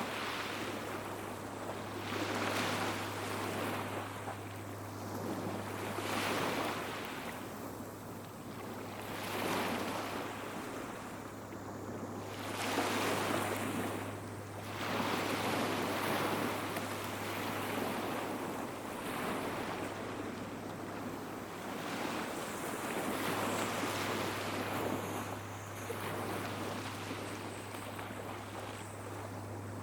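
Small sea waves breaking and washing up a beach, swelling and falling back about every three seconds. A steady low hum runs underneath.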